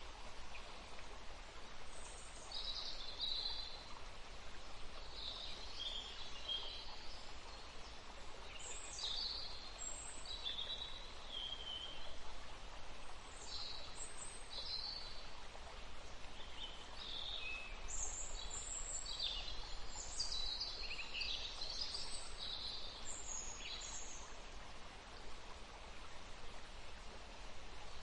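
Several small songbirds chirping and singing in short, high phrases, busiest about two-thirds of the way through, over a steady faint hiss.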